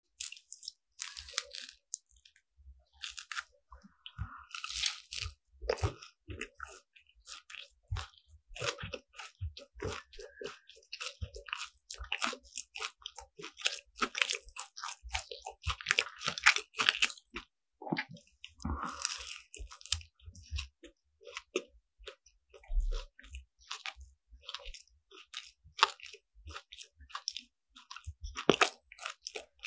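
Close-miked biting and chewing of crisp croffles (croissant dough pressed in a waffle iron). There are many irregular crackly crunches as the flaky, caramelized crust breaks between the teeth.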